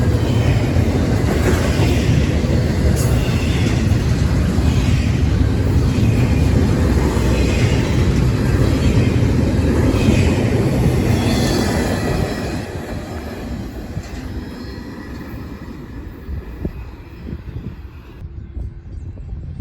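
Train rolling past, its cars' steel wheels running on the rails with a steady loud rumble that dies away about twelve seconds in as the train goes by.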